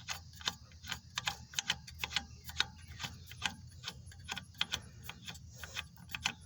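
Lug nuts being spun by hand onto a pickup truck's wheel studs: a quick, irregular run of light metallic clicks, about three a second.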